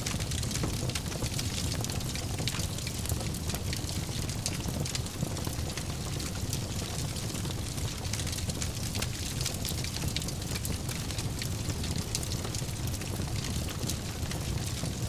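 Wood fire burning in a fireplace, crackling steadily: a constant low rumble of the flames with many small, quick pops and snaps throughout.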